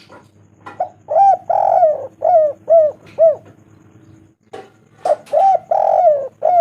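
Spotted dove (tekukur) cooing: two phrases, each a few short arching coos with one longer rolling coo in the middle, the second phrase starting about five seconds in.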